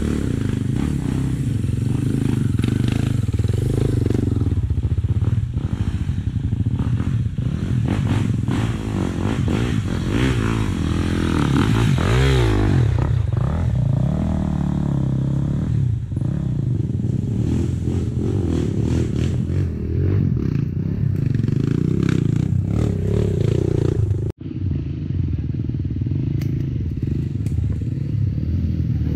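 Off-road trail motorcycle engine running and revving unevenly, with knocks and rattles. The engine note swells and dips around the middle, and the sound cuts out for an instant near the end.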